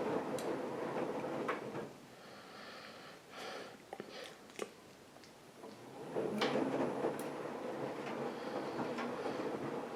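AEG Lavamat washing machine running a wash cycle, its drum turning with a steady rumble. About two seconds in the drum stops, leaving a few light clicks and knocks, and it starts turning again about four seconds later.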